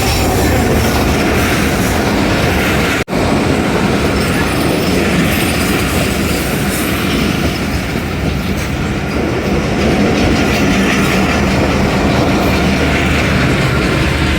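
Train running on the rails: a steady, loud rattle and clatter of the railway carriages, broken by an instant dropout about three seconds in.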